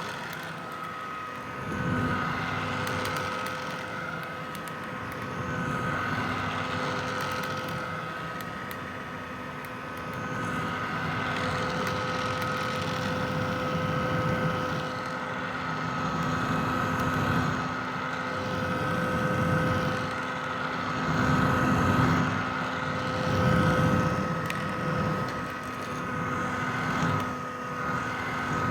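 Vintage hair dryer running continuously: a steady motor whine over the rush of blown air, its level swelling and easing every few seconds.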